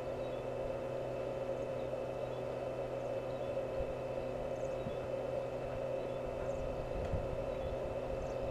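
A steady mechanical hum at a constant pitch, with a low rumble underneath.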